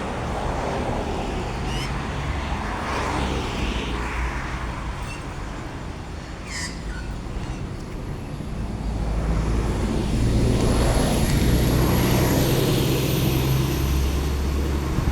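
Road traffic: a motor vehicle's low engine rumble, growing louder about ten seconds in, with a few short bird calls over it.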